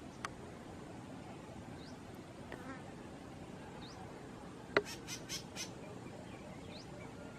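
Faint short rising bird chirps over a steady outdoor background. About two-thirds of the way through comes a sharp click, then four quick rasping notes.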